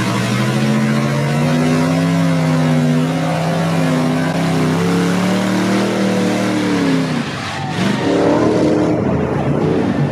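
A mud-bogging truck's engine running hard at high revs. Its pitch holds fairly steady, drops briefly about seven seconds in, then picks up again.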